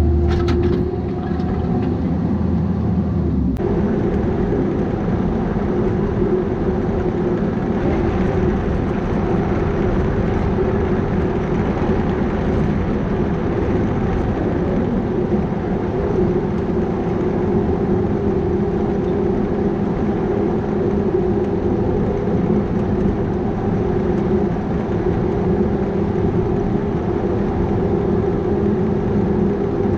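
Bobcat 337G mini excavator's diesel engine running steadily at working speed, with a change in tone about three and a half seconds in.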